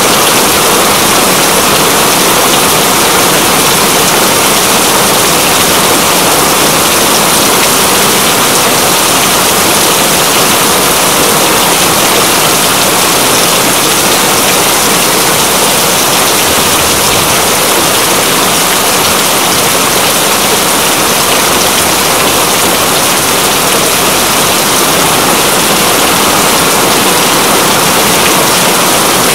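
Steady, heavy rain falling as a dense, unbroken hiss.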